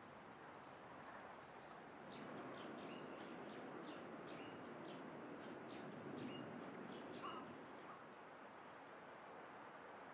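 Faint birds chirping, a quick run of short high notes from about a second in until near the end, over a steady outdoor background hiss.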